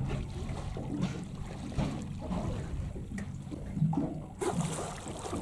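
Water lapping and trickling against the hull of a small fishing boat, over a low steady hum. A brief rush of noise comes near the end.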